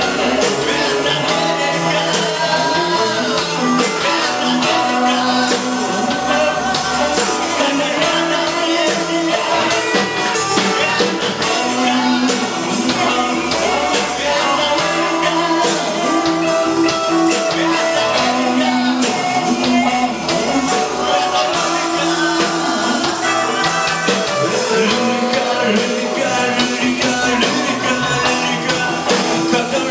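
Band music in a rock style, with no rapped vocals.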